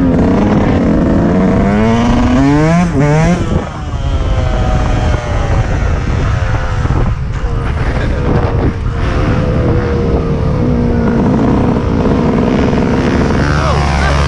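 Dirt bike engine running under way. It revs up in several quick rising sweeps about two to three seconds in, then runs at a steadier pitch.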